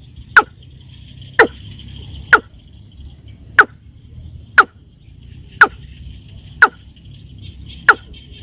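Watercock calls: loud, sharp, downward-sweeping notes repeated about once a second, eight in all, over a faint steady high hiss.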